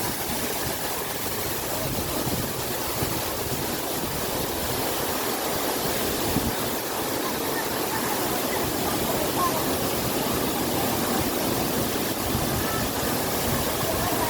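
Steady rush of water from a mountain stream and its waterfalls.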